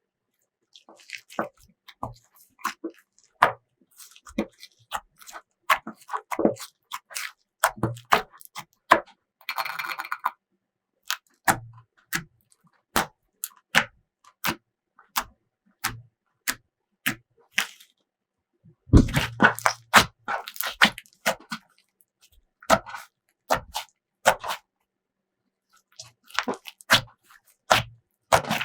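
Slime being kneaded and pressed by hand, giving irregular sharp wet pops and clicks, with a short crinkly hiss about ten seconds in and a dense run of pops about two-thirds of the way through.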